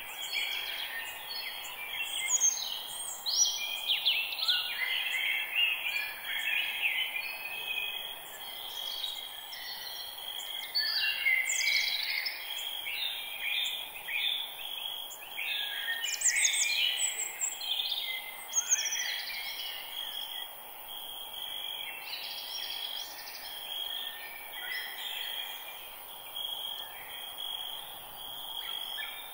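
Several birds singing and chirping together in a dense forest chorus of short, overlapping calls and trills, over a steady high tone and a soft hiss.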